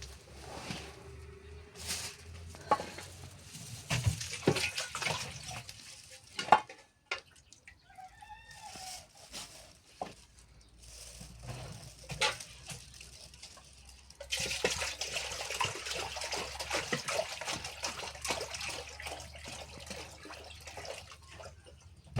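Scattered knocks and clatter of things being handled, then, about two-thirds of the way in, a steady rush of running water that continues to the end.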